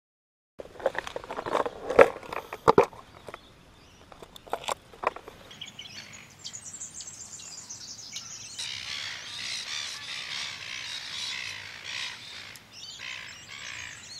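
A few sharp clicks and knocks in the first few seconds, then birds chirping in a dense, continuous chorus from about six seconds in.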